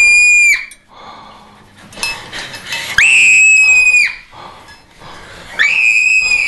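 Shrill, high-pitched screaming: three long screams, each sliding up at the start, held, then falling away. One is cut off about half a second in, the next comes about three seconds in, and the last starts near the end.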